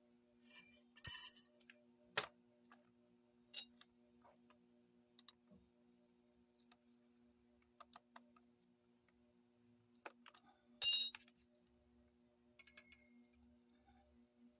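Scattered metallic clicks and clinks of a motorcycle steel clutch plate being handled, with a cluster of clinks in the first second or so and one loud ringing clink about eleven seconds in. A faint steady hum runs underneath.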